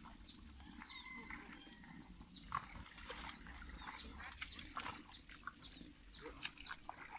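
A bird calling over and over, short high falling chirps about two a second, with scattered clicks and a sharper knock about two and a half seconds in.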